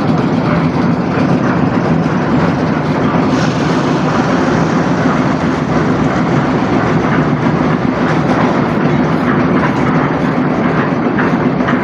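A heavy machine's engine running steadily: a constant low hum with a dense clatter over it, typical of construction-site machinery such as a concrete mixer.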